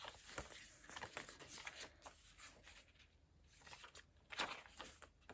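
Faint rustling and soft flicks of paper as the pages of a handmade junk journal are turned and handled.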